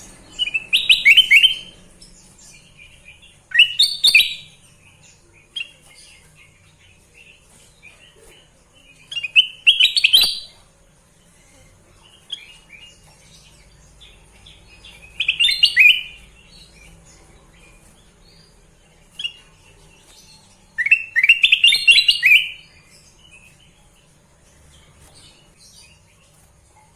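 Kutilang emas bulbul singing: five loud, quick chattering song phrases a few seconds apart, with soft short chirps in between.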